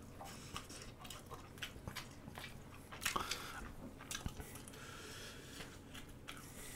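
Faint close-up chewing of a mouthful of spicy stir-fried noodles: soft wet mouth sounds and small clicks, a little louder about three seconds in.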